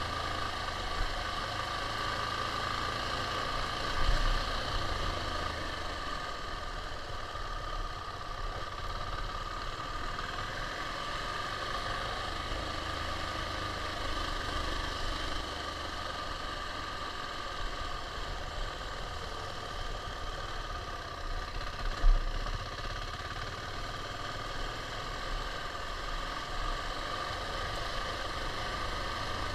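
KTM 690's single-cylinder engine running steadily, with a low rumble underneath. Two short thumps stand out, a small one a few seconds in and a louder one about three quarters of the way through.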